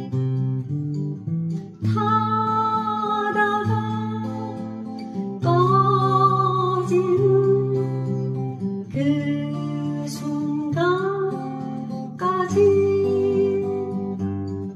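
Acoustic guitar strummed in a waltz pattern. From about two seconds in, a sustained melody with vibrato runs over it in long phrases.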